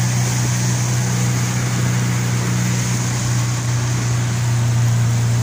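Motorboat engine running steadily at cruising speed, a constant low drone under a steady rushing hiss.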